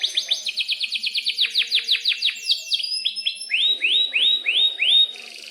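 Domestic canary singing in runs of repeated notes: a fast series of short falling chirps, then a slower phrase of five upswept notes, then a quieter rapid trill near the end.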